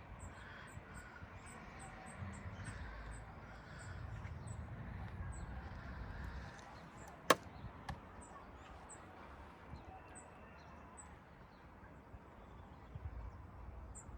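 Quiet outdoor garden ambience: a low wind-like rumble with faint, high, repeated bird chirps. A single sharp click, the loudest sound, comes a little past halfway, followed by a fainter one just after.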